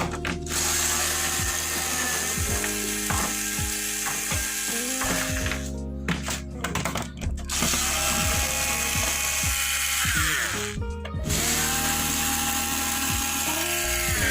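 A power screwdriver whirring and ratcheting in short runs as the screws of the LED TV's back cover are driven out, with background music.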